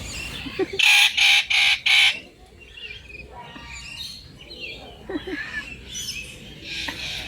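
Four loud, harsh bird squawks in quick succession about a second in, over steady chirping and calling of many other birds.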